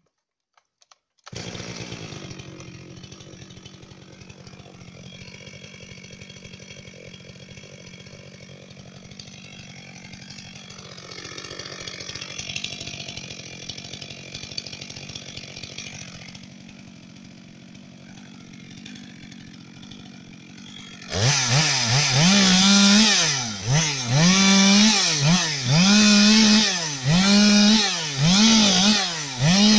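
Two-stroke chainsaw idling steadily. About two-thirds of the way in it is opened to full throttle again and again, its pitch rising, holding and dropping back roughly once a second.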